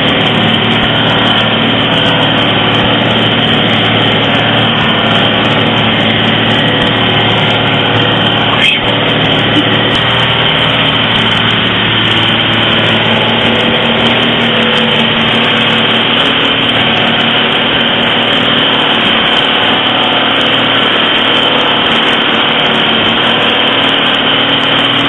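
Vehicle engine running steadily with constant road noise, heard from inside the cabin on a gravel road; a single brief knock about nine seconds in.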